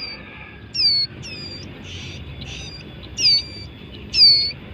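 Young ciblek gunung (a prinia) calling over and over: about six short, high, squeaky calls, each dropping quickly in pitch then levelling off, the loudest near the end.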